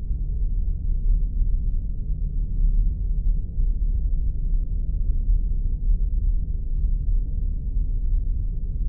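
Spaceship ambience sound effect: a steady, deep engine rumble with almost nothing above the low end, a few faint ticks scattered above it.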